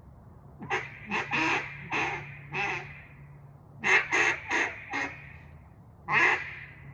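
Acrylic Singleton cutdown duck call blown in short quacks: a run of about six in the first three seconds, four quicker ones about four seconds in, and one more near the end.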